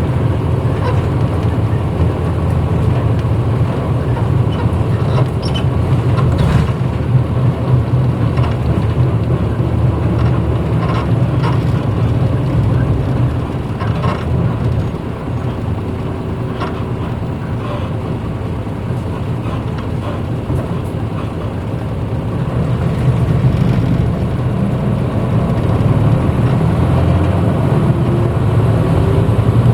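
Onboard running sound of a 1994 Hino Blue Ribbon route bus (U-HT2MPAA), its diesel engine pulling at mid revs. It eases off about halfway through, then builds up again with a rising pitch near the end. Scattered clicks and rattles come through over the hum.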